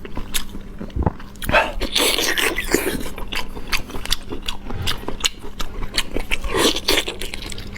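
A person chewing and biting food close to the microphone, with many quick, wet mouth clicks and smacks.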